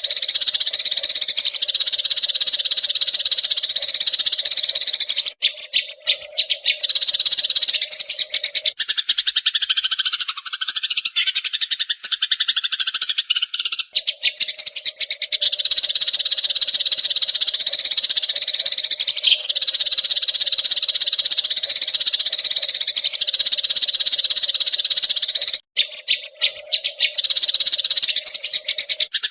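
A dense, continuous chorus of chirping Eurasian tree sparrows. Twice it thins into a few seconds of choppier calls, and for a stretch in the middle it gives way to calls that glide up and down.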